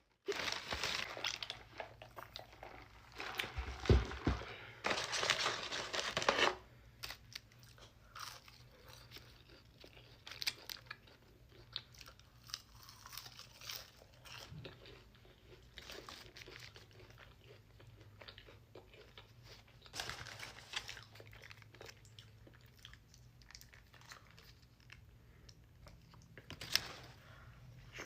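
Close-miked eating: crunchy bites and chewing, densest and loudest in the first six seconds, then quieter scattered chewing and mouth clicks.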